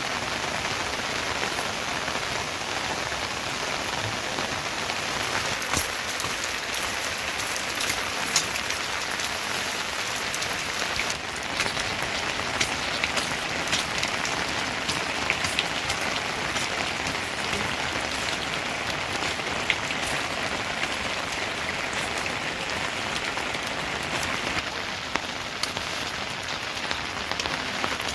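Steady rain falling, with sharp individual drops striking close by now and then.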